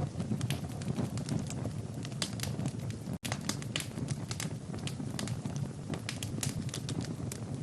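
Wood fire burning in a fireplace: a steady low rush of flames with frequent sharp crackles and pops. The sound cuts out for an instant about three seconds in.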